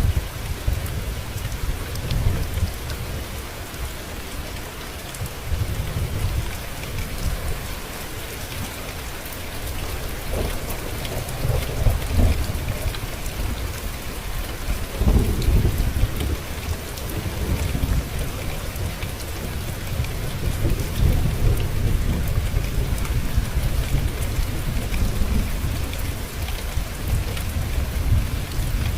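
Steady rain falling, with deep thunder rolling in several times, the loudest rumbles about twelve and fifteen seconds in.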